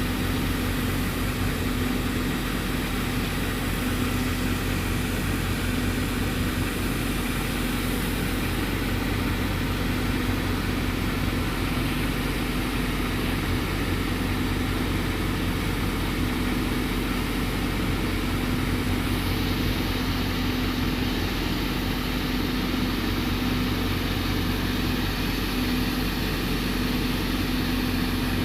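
Fire engine's motor running steadily at constant speed, a continuous hum with no change in pitch.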